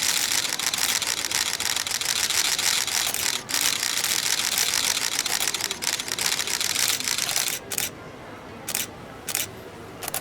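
Many camera shutters clicking in a rapid, continuous barrage, thinning to a few short bursts near the end.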